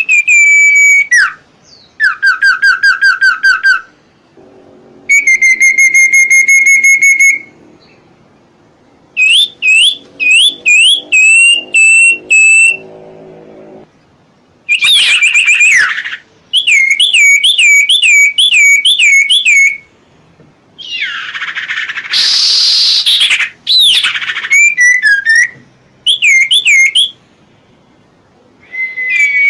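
Songbird singing in loud, clear phrases of sweeping whistles and rapid repeated notes, with short pauses between phrases and one harsher call about two-thirds of the way through; a tutor recording of the bird sold as serpu or cipo.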